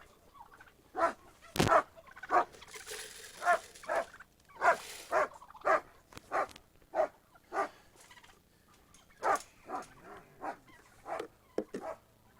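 Poultry in a pen giving a run of short, repeated calls, about one or two a second.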